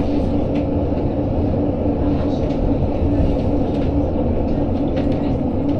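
GoldenPass Belle Époque train rolling along, heard from inside its passenger carriage: a steady rumble with a constant hum and a few faint clicks.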